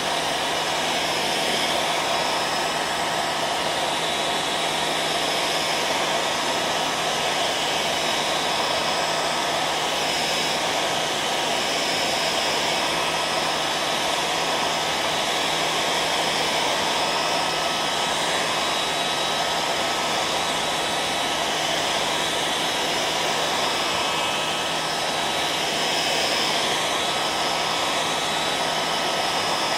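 Hair dryer running steadily: an even rushing blow of air with a faint motor hum underneath.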